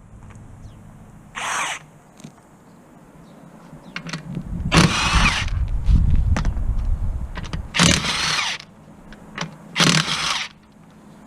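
A power tool run in four short bursts, the longest about a second, with a low rumble between the second and third.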